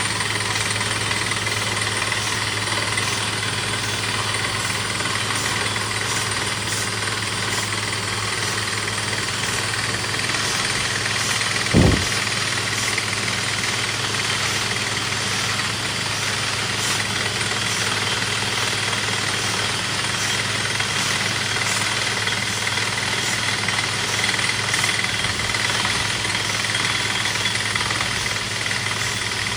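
Borewell drilling rig running steadily, its engine humming under dense, rattling drilling noise. One brief, loud thump comes about twelve seconds in.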